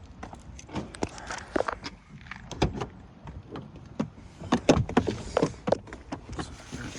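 A run of sharp knocks and clicks, irregularly spaced, as things are handled around a vehicle. The loudest come about two-thirds of the way through.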